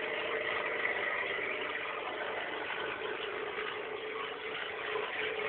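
Peugeot 106 1.1-litre engine running steadily with no exhaust system fitted, giving a loud, unsilenced engine note that swells slightly near the end.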